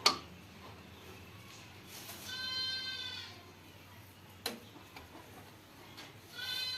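An animal bleating twice, each call about a second long, the second near the end. A sharp knock comes right at the start and a click near the middle.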